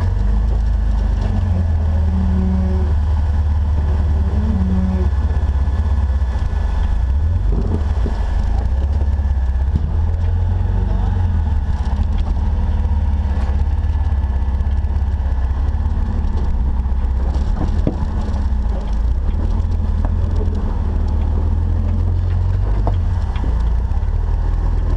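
Off-road Jeep 4x4 driving with its engine running, a heavy, steady low rumble throughout.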